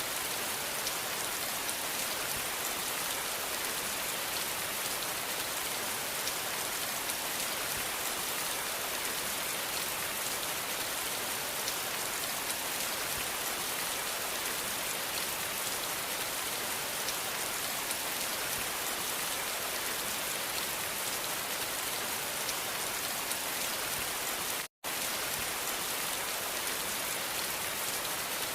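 Steady rain falling: an even hiss of dense drops with fine patter, cutting out completely for a split second near the end.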